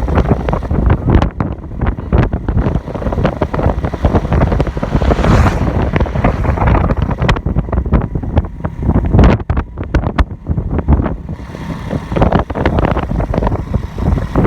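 Wind buffeting the microphone: a loud, uneven rumble with crackling pops throughout.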